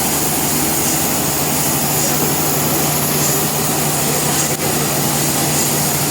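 Sawmill machinery running steadily: a continuous engine drone with a low hum under a loud hiss. There is a brief drop in level about four and a half seconds in.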